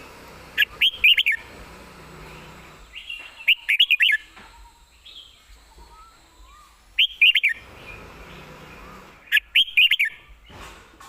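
Red-whiskered bulbul singing short, quick phrases of clear whistled notes, four bursts a few seconds apart.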